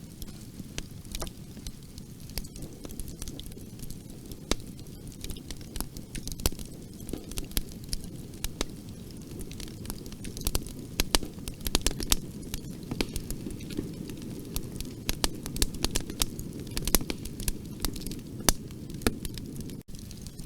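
Bonfire burning: a steady low rumble of flames with irregular sharp crackles and pops of burning wood, coming thicker from about halfway through.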